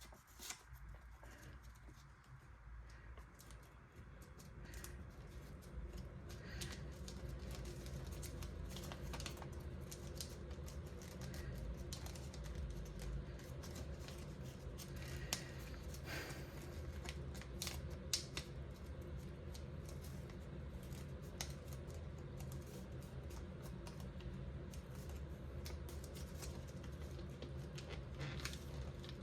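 A sheet of origami paper being folded and creased by hand, with soft crinkling and scattered small clicks and taps, over a faint steady low hum.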